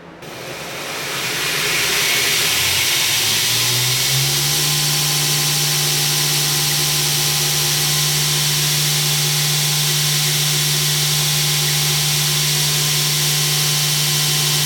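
Electric motor of a shop power tool spinning up, its hum rising in pitch over about four seconds, then running at a steady speed with a high whirring hiss.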